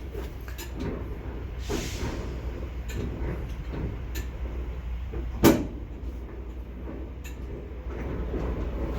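Steady low rumble of an idling semi truck, with scattered sharp clicks and one loud bang about five and a half seconds in.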